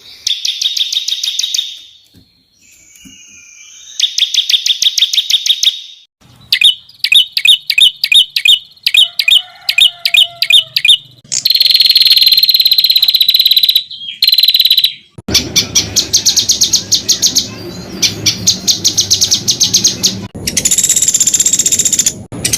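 Songbirds singing in a spliced sequence of separate recordings: fast high-pitched trills and rapid runs of repeated notes, with one long steady whistle partway through, each segment breaking off abruptly into the next. About fifteen seconds in, a recording with a background hiss takes over.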